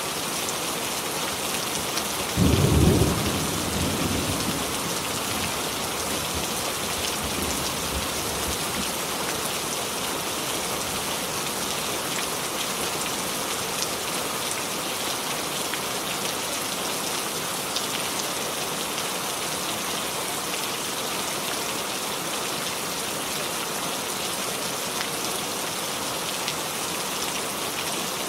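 Steady heavy rain with a single low clap of thunder about two and a half seconds in, rumbling away over the next couple of seconds.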